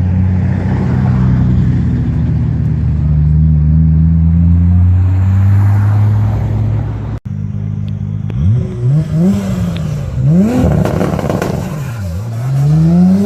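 Modified Nissan Skyline R34 GT-R's twin-turbo RB26 straight-six. It first runs steadily with its pitch slowly climbing. After a sudden cut, it revs sharply up and down several times, ending in one long climbing rev.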